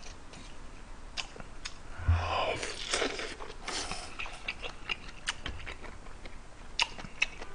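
Close-up chewing and mouth sounds of a person eating kimchi stew, with scattered small clicks and a short dull thump about two seconds in.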